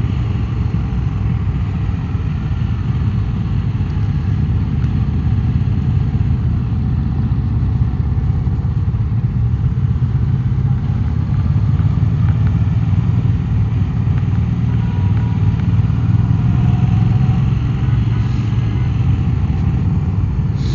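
2016 Triumph America motorcycle's parallel-twin engine running steadily while riding at cruising speed, a constant low rumble.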